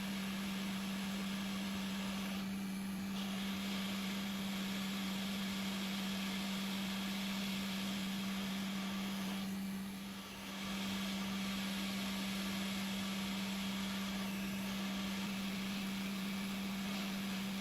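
A steady hum with a constant low tone over a hiss, dipping briefly about ten seconds in.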